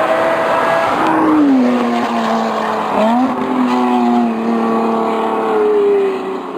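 High-performance engine running through a loud aftermarket exhaust: its pitch drops about a second in, blips up sharply around three seconds, then holds and slowly falls.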